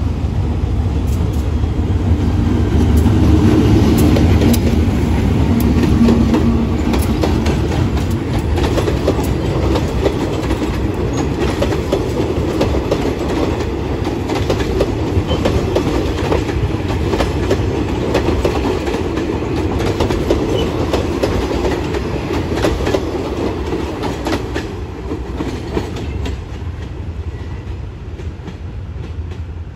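Diesel locomotive hauling a passenger train past at low speed: its engine hum is loudest in the first few seconds, then a long string of coaches rolls by with a steady clickety-clack of wheels over rail joints and points. The sound fades near the end as the train moves away.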